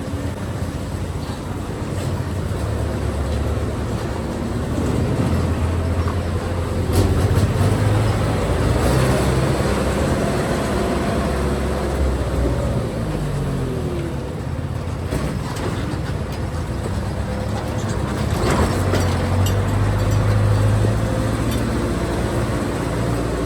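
Motorcycle engine running while riding, its pitch rising and falling a couple of times as it speeds up and slows, over steady road and wind noise.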